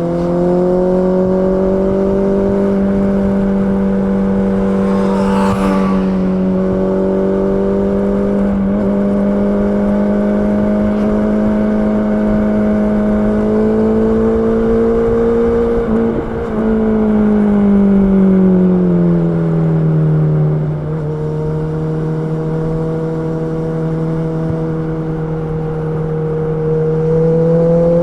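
Honda CB650R inline-four engine running at a steady mid-range speed, its note holding for long stretches, rising a little, then dropping over a few seconds past the middle, with brief breaks in the note around then. A short hiss passes about five seconds in.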